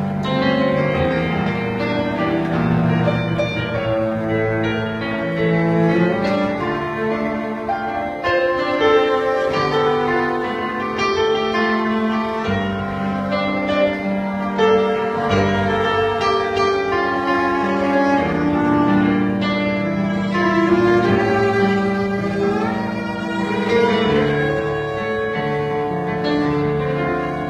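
Cello bowing a melody over a guitar accompaniment, with a slide up in pitch near the end.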